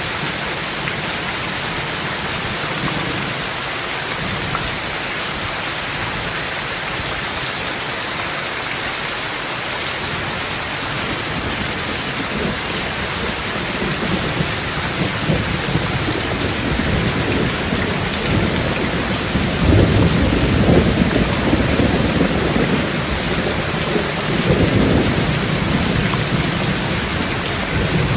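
Steady rain with thunder rumbling low; the rumble builds from about halfway through and swells twice near the end.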